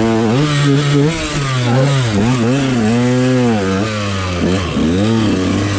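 Dirt bike engine being ridden hard, the throttle opened and closed over and over so the pitch keeps rising and falling.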